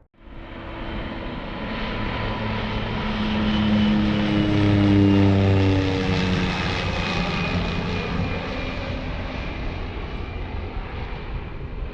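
Propeller-driven turboprop aircraft flying past. Its propeller and engine drone builds to its loudest about five seconds in, drops in pitch as it goes by, then fades slowly.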